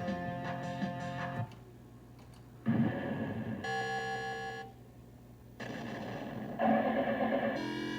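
Williams High Speed pinball machine's sound board playing synthesized music and sound effects through its speaker, in short separate pieces with brief gaps, one near the end rising in pitch. The machine has a sound fault: it stays silent at times, and its music test plays only one song.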